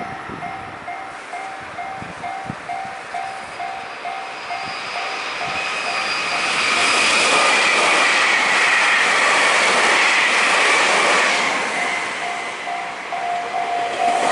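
Level-crossing warning bell ringing in a steady two-tone pulse about twice a second, then a train passes over the crossing. Its rush grows loud from about six seconds in and drowns the bell, which is heard again near the end as the train goes by.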